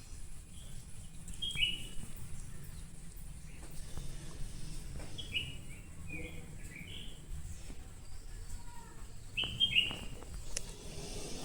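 Birds chirping: clusters of short, falling chirps about a second and a half in, again from about five to seven seconds, and near ten seconds, over a low steady background rumble.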